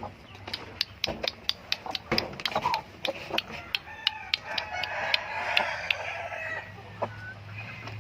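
Chickens clucking, with a rooster crowing about the middle, over a quick run of sharp clicks in the first half.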